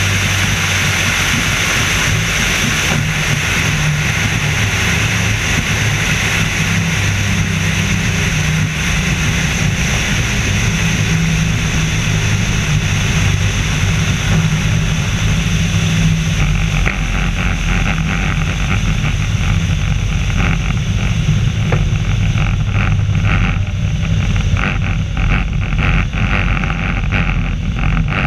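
Engine and propeller of the Screamin' Sasquatch biplane running steadily at a loud, constant level. From a little past halfway, irregular fluttering wind buffets the microphone.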